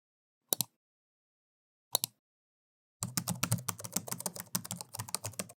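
Sharp clicks: two single clicks, then a fast run of clicks starting about three seconds in.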